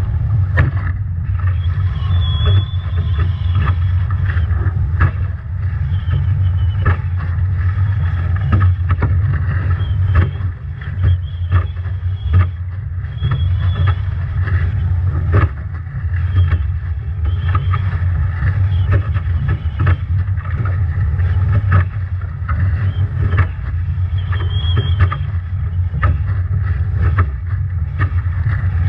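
Nacra 17 foiling catamaran sailing hard in strong wind and heavy waves: loud wind buffeting on the boat-mounted microphone over rushing water, with frequent sharp slaps of spray and waves against the hull. A thin high whistle comes and goes.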